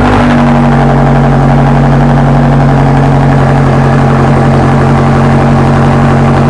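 Car engine idling steadily and loudly just after being started, holding an even low drone.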